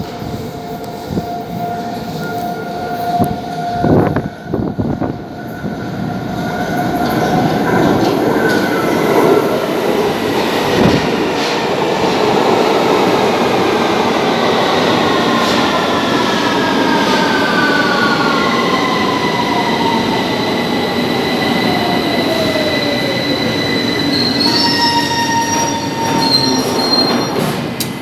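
Victoria line Underground train running into the platform and braking. Its noise builds over the first several seconds, with a few sharp knocks about four seconds in. Its motor whine then glides steadily down in pitch as it slows, and it settles to steady tones near the end as it comes to a stand.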